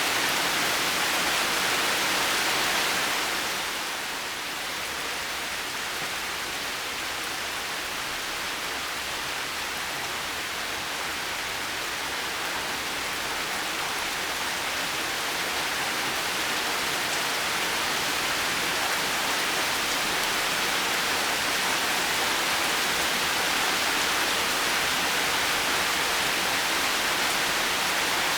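Heavy rain falling steadily, a dense even hiss of drops. It eases slightly about three seconds in, then slowly builds back up.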